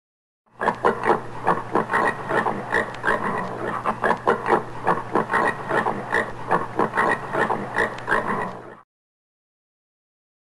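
Common warthog grunting in a rapid run of short grunts. It starts about half a second in and cuts off abruptly near the end.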